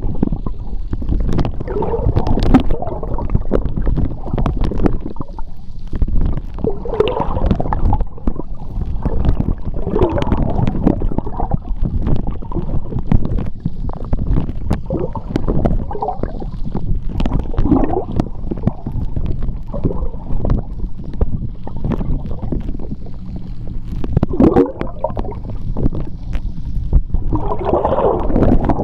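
Sea water heard underwater: a steady low rumble of moving water with irregular gurgling bubbles and scattered clicks. The bubbling swells twice near the end.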